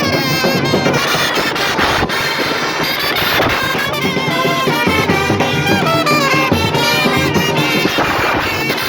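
Music with brass instruments playing a wavering melody, loud and unbroken.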